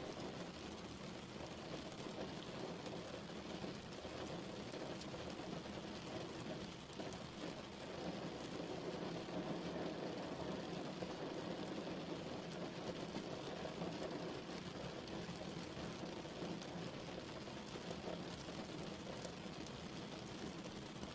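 Steady rain falling on a surface, an even patter with no breaks.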